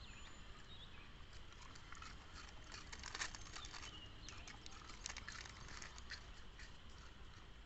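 Puppies moving about at biscuits on the ground: faint, irregular clicks and patter, a little louder about three seconds in and again about five seconds in.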